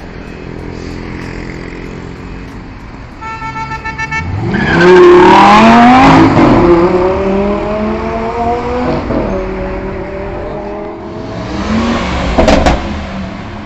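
Lamborghini engine revving hard as the car accelerates away, its pitch climbing steeply about four and a half seconds in and staying loud before easing off. A short pulsing tone comes just before it, and a few sharp cracks near the end.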